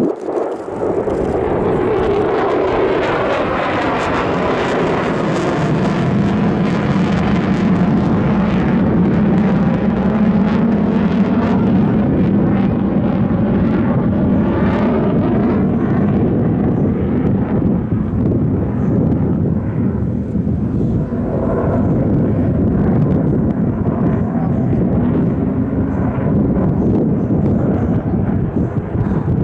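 Military display aircraft flying past, its loud engine noise running on continuously, with a swirling, phasing sweep to it in the first few seconds and again about halfway.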